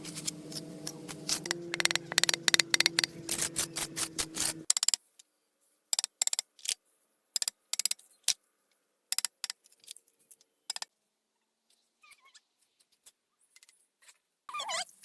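A steady motor hum that cuts off about four and a half seconds in, under a run of sharp clinks and taps that come thickly at first and then sparsely. Fowl calls start near the end.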